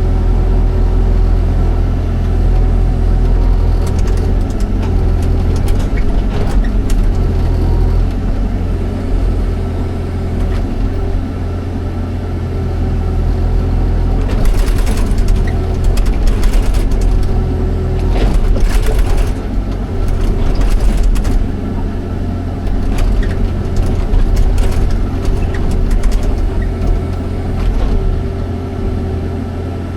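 Excavator's diesel engine running steadily under load, with a run of sharp clanks and scrapes through the middle stretch.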